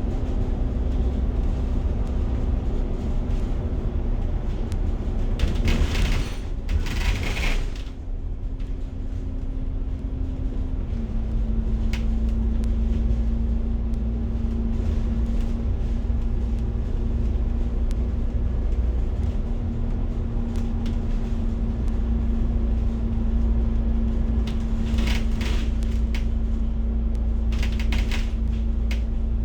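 Inside a moving city bus: a steady low rumble of engine and road, with a constant engine hum that drops slightly in pitch about eleven seconds in. A loud burst of hissing noise comes about six seconds in, and shorter, fainter ones come near the end.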